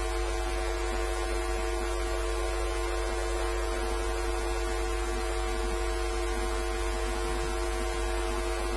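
Steady electrical hum with several constant tones under an even hiss, unchanging and with no other sound.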